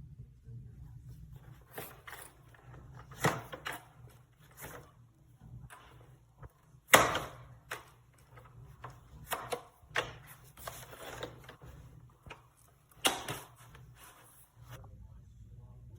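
Scattered sharp knocks and clicks, the loudest about seven seconds in, over a faint steady low hum.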